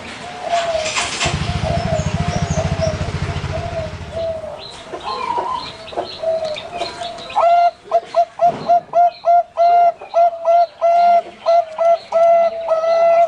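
Zebra doves (perkutut) cooing: a chain of short, repeated coos on one pitch, which become louder and evenly rhythmic, about two a second, in the second half. A low buzz sounds for a few seconds early on.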